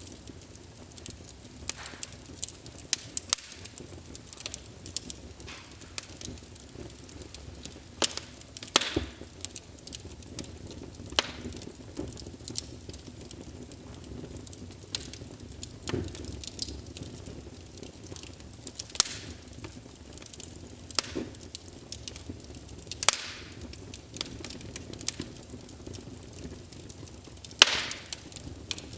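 Wood fire crackling: irregular sharp pops and snaps, a few of them much louder, over a low steady hiss, with a loud pop near the end.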